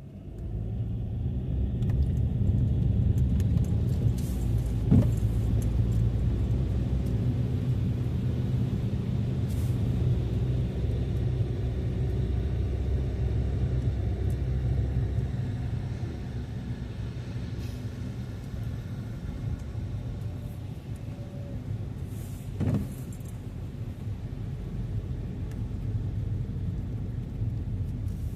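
A car driving, its engine and road noise a steady low rumble that comes in suddenly at the start, with two short thumps, one about five seconds in and one near the end.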